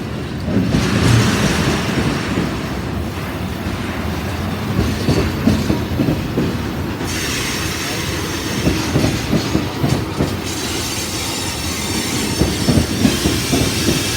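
CSX freight train cars rolling past, their wheels clacking over the rails, with a high wheel squeal at times.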